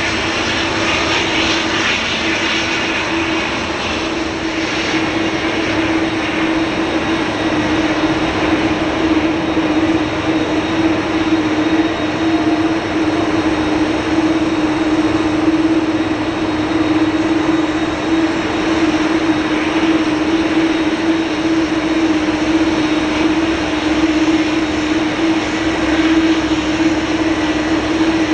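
Airbus A330-300 jet engines running steadily, a constant noise with a strong droning tone, slightly louder after the first few seconds.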